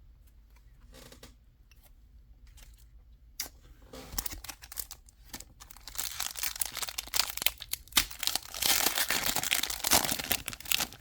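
A foil Pokémon card booster pack wrapper being crinkled and torn open by hand. It starts with a few faint ticks, then builds about four seconds in to a dense crackle that is loudest near the end.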